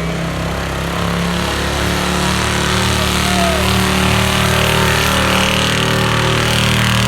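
Truck engine running hard under load, pulling a weight-transfer sled down the track; its pitch steps up a little and it gets slightly louder about a second in, then holds steady.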